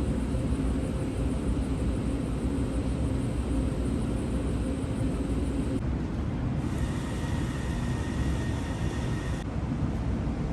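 Steady low rumbling noise with a hiss over it, of the kind heard riding in a vehicle; its character changes abruptly about six seconds in and again near nine and a half seconds.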